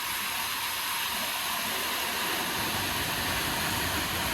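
Steady rushing noise of a waterfall, growing fuller and deeper from about a second and a half in.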